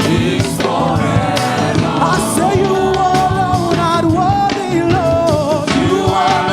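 Live gospel praise-and-worship music: a solo singer holds long notes with a wide vibrato over a band with keyboard and drums.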